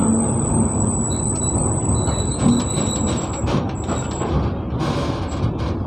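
Passenger train running: a steady rumble with clattering knocks, and a thin high whine that stops about four seconds in.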